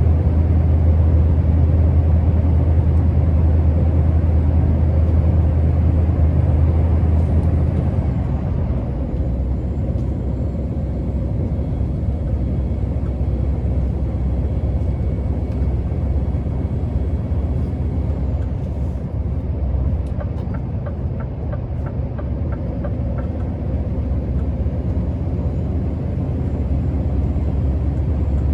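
Scania R650's 16-litre V8 diesel engine running as the truck drives, a deep steady drone. About eight seconds in, the drone drops to a lower, lighter note as the load eases. Later there is a short run of quick, light ticks lasting a few seconds.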